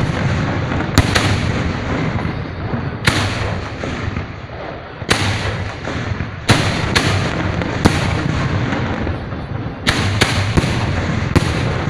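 Fireworks display: about a dozen sharp bangs of aerial shells bursting at irregular intervals, over a continuous din of further bursts and crackle.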